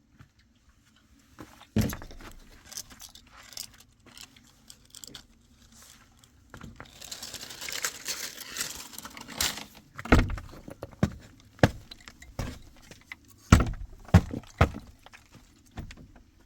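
Handling noises: a string of sharp clatters and knocks, with a denser rustling, scraping stretch in the middle.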